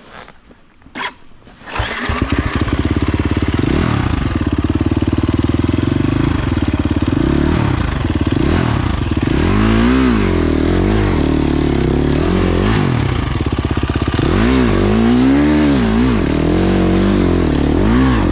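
Dirt bike engine cutting in loudly about two seconds in, then revved up and down over and over as the bike works a rough line, after a couple of short knocks at the start.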